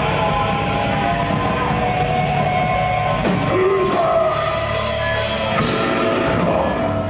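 Death metal band playing live: distorted electric guitars and a drum kit at full volume, with sliding guitar notes.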